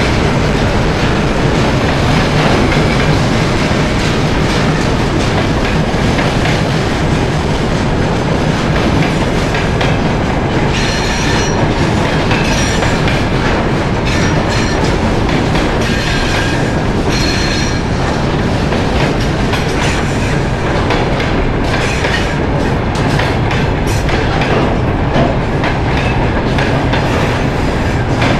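Freight train hauled by a TEM2 diesel shunting locomotive rolling along the track: a steady loud rumble with the wheels clicking over rail joints, and brief high wheel squeals about eleven and again about sixteen seconds in.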